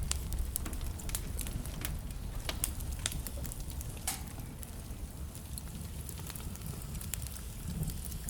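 Wood fire burning in a fireplace: a steady low rumble of the flames with irregular sharp crackles and pops of the burning wood, one of them slightly longer about four seconds in.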